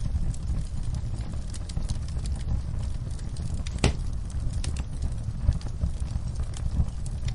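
Wood fire burning in a fireplace, crackling with scattered sharp pops over a steady low rumble; one louder crack comes about four seconds in.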